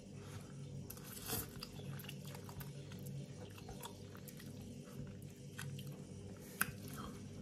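A man chewing a mouthful of vegetable ramen close to the microphone, with scattered soft mouth clicks and smacks.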